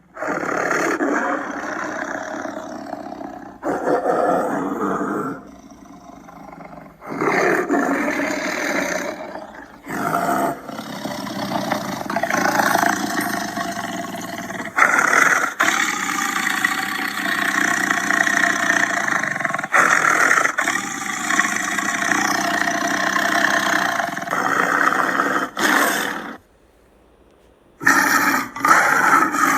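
Big cats roaring and growling in a series of separate clips, each cut off abruptly, with a short silent gap near the end.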